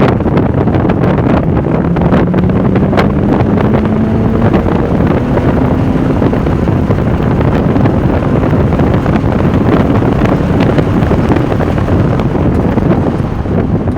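Porsche 996 Turbo's twin-turbo flat-six under power at speed, largely buried under heavy wind noise on the microphone. The engine's pitch climbs steadily over the first few seconds.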